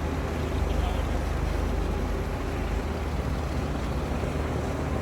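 Diesel engine of a heavy earthmoving machine running steadily under load, a deep low drone with a rough rattle over it.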